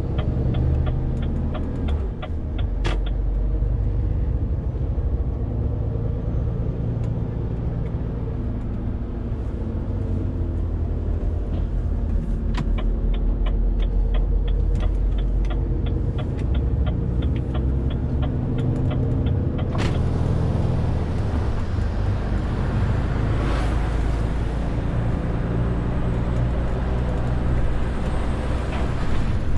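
Renault T520 truck's diesel engine running steadily under a 40-tonne load, heard from inside the cab. A rapid, even ticking of about three a second comes in near the start and again from about 12 to 20 s in, and from about 20 s on a louder hiss of road and wind noise joins the engine.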